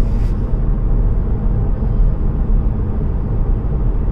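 Steady low rumble of a car cruising at 60 mph on cruise control, heard inside the cabin with the windows shut: road and engine noise.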